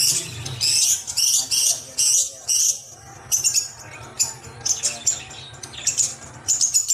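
Bird chirping: a series of short, high chirps, some coming in quick runs.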